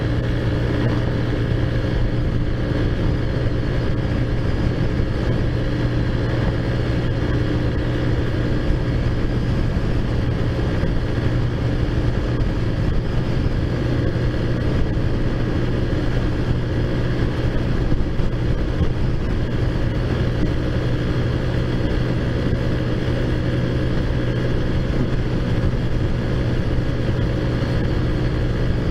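Taotao Zummer moped's small four-stroke engine running at a steady cruising pitch while being ridden, with no revving up or down.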